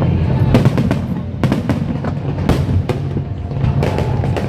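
Aerial fireworks going off in an irregular run of sharp bangs over a continuous low rumble, with music playing alongside.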